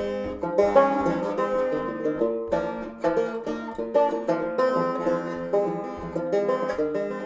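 Bluegrass banjo music: fast picked banjo notes over a steady low beat.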